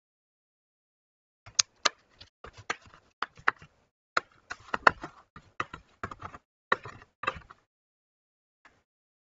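Quick series of sharp plastic clicks and knocks as the case of an Asus X505BP laptop is handled and pried apart, its clips letting go, over about six seconds, then one faint click near the end.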